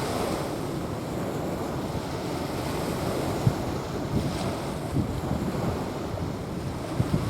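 Small waves washing onto a sandy beach, with wind buffeting the microphone in low rumbling gusts.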